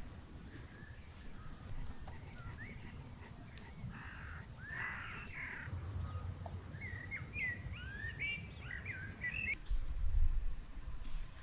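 Wild birds calling: two harsh calls about halfway through, then a quick run of rising and falling chirps, over a low rumble that gets louder near the end.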